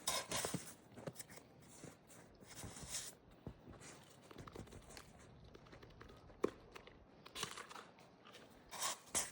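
Snow being scooped and scraped with a measuring cup, crunching in short bursts a few seconds apart, with a sharp click partway through.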